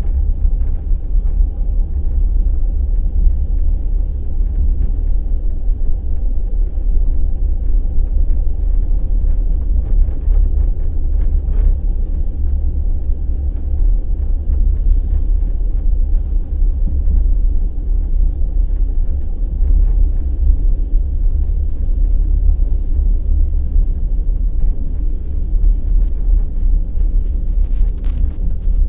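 Passenger express train running along the track: a steady low rumble of the wheels and carriage, with scattered clicks of wheel clatter.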